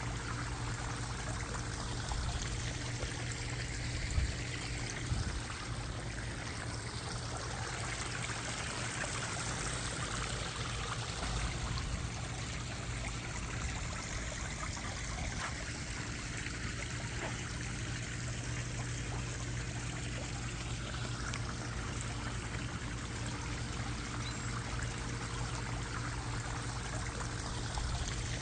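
Water falling and splashing steadily in a backyard pond's waterfall and fountain, a continuous pouring trickle.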